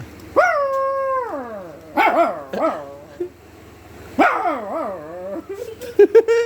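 A man imitating a dog's howl: three drawn-out howls, the first held steady and then falling, the next two wavering downward, followed by a few short yelps near the end.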